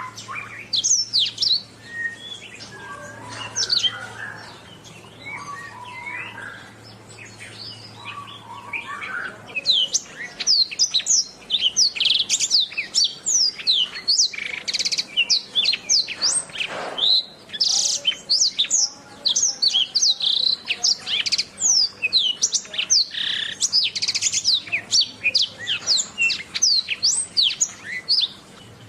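Domestic canary singing. The song is softer and sparser for the first third, then breaks into a long, dense stream of fast, high, sweeping trills and chirps.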